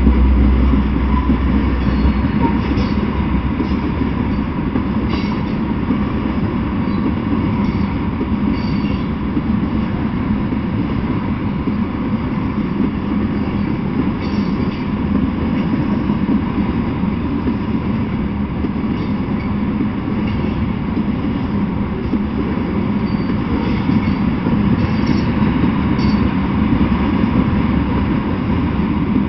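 Freight train of tank cars and a covered hopper car rolling past, a steady noise of steel wheels running on the rails.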